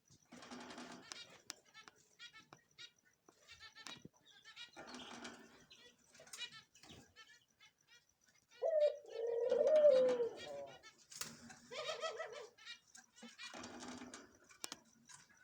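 Cockatiels chattering softly, with one louder, wavering call about nine seconds in that lasts a couple of seconds.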